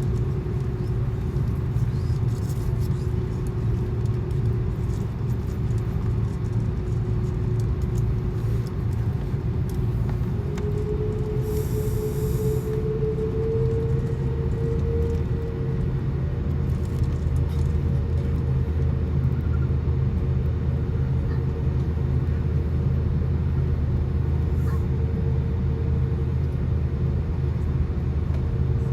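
Airbus A330-200 cabin noise from a window seat: a steady low rumble of the jet engines, with an engine tone that rises a little in pitch about eleven seconds in and then holds.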